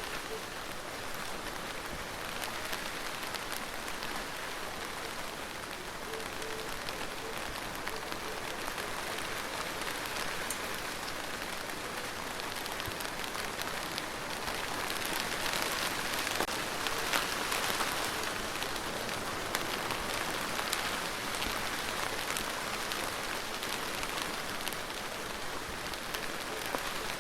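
Steady rain falling on a surface, an even hiss with scattered ticks of individual drops. It grows a little heavier about halfway through, then eases back.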